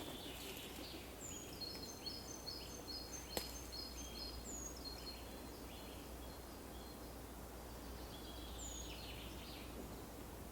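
Faint songbirds singing: runs of short, high chirping notes with a few down-slurred whistles, over a low steady hum. A single sharp click about three and a half seconds in.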